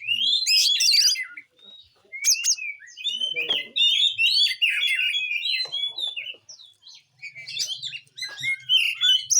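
Oriental magpie-robin (kacer) singing a fast, varied run of whistled and chattering phrases, broken by short pauses of about a second.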